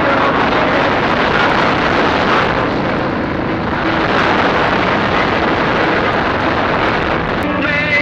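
Chinese 250 cc dirt bike engine running steadily under a loud rush of noise, likely with wind on the microphone; the engine's pitch stands out more clearly near the end.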